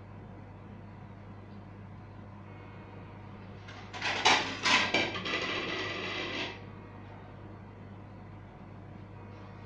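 HO-scale model train running on a layout, with a steady low hum. About four seconds in comes a louder burst: a few sharp clattering strokes, then a steady hiss lasting about two seconds that cuts off suddenly.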